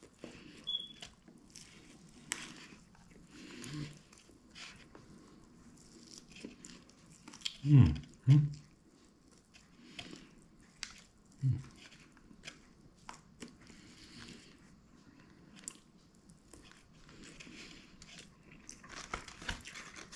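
Close-up eating sounds of a person biting and chewing a crispy fried chicken wing: scattered crunches and mouth clicks, with a few brief low vocal sounds about a third of the way in, around the middle and just past the middle.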